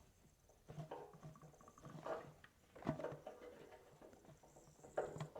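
Weak trickle of petrol from a motorcycle fuel tap pattering into a container, with a few faint knocks. The flow is poor, a sign of a restricted petcock.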